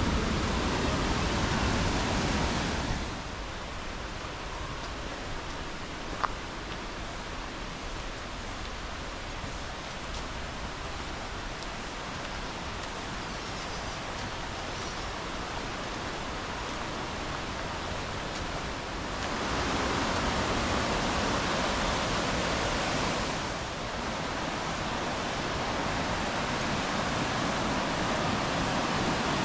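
Steady rush of river water through a rainforest gorge, an even hiss with no tones in it, louder in stretches at the start and again from about two-thirds of the way through. A single sharp click about six seconds in.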